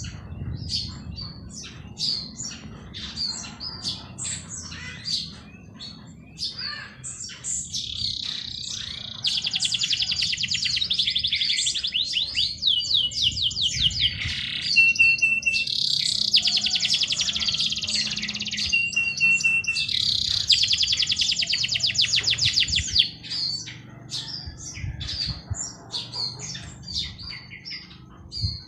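Several songbirds singing together: many short high chirps, with long, very fast trills in the middle of the stretch that are the loudest sound, and a few brief steady whistled notes between them.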